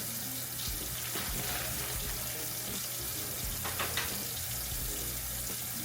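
Kitchen tap running steadily into a sink, with a light clatter of handling about four seconds in.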